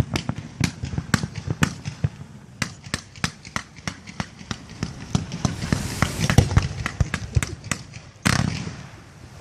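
Fireworks display: a rapid, irregular run of sharp bangs and crackles, several a second, with one bigger blast and a trailing rumble about eight seconds in.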